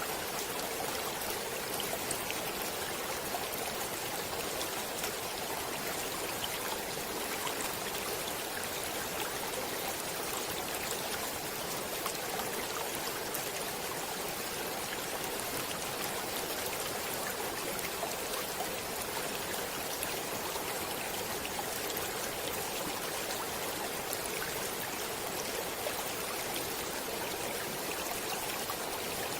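Stream water flowing steadily: a continuous, even rush with fine splashing ticks in it.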